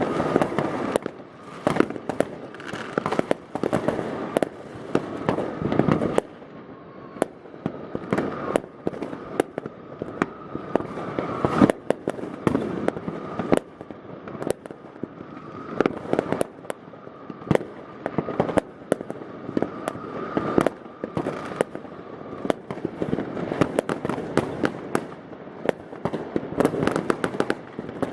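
Dense, continuous New Year's Eve fireworks: many rockets and firecrackers banging and crackling at once, a constant barrage of sharp bangs with no pause.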